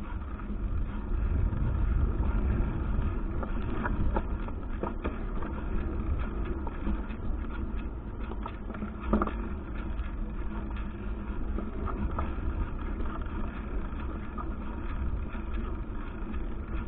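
Wind rumbling over the microphone of a handlebar-mounted action camera on a moving bicycle, with rolling tyre noise and a few sharp knocks and rattles from the bike. The loudest knock comes about nine seconds in.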